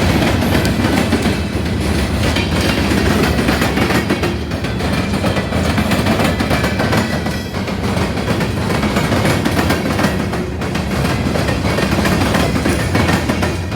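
Coal train cars rolling past, a steady rumble of wheels on rail with a quick run of clacks over the joints.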